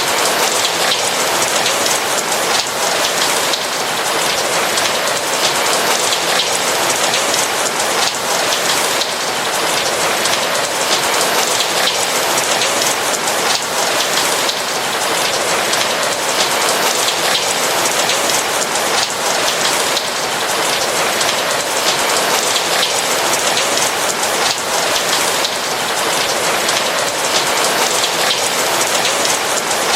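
Steady rain falling, an even dense hiss of raindrops pattering on a roof.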